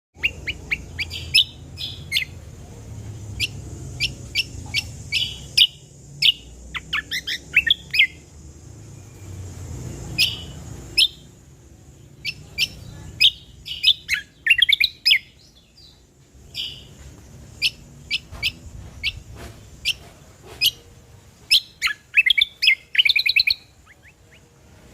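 Greater green leafbird (cucak kombo) singing: a rapid string of sharp chirps and quick trills in bursts, separated by short pauses.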